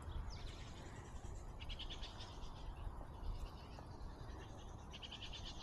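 Faint, rapid trilling calls from a small animal, three short runs, over a low steady rumble.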